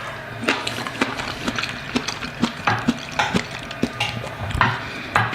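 Knife and fork clicking and scraping against a plate in quick irregular taps, as food is cut and picked up.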